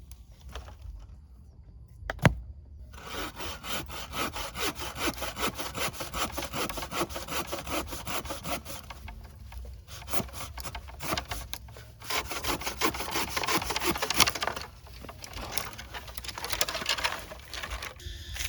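Hand saw cutting wood in quick back-and-forth strokes, in several runs with short pauses. A single sharp knock about two seconds in is the loudest sound.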